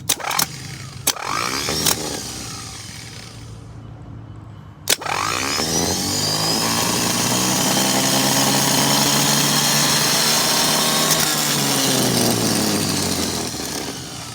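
A few sharp electrical clicks, then a worn-out truck starter motor spinning up to a steady high-speed whine for several seconds before winding down near the end. It spins freely in a way it is not supposed to, the sign of a burnt-out starter.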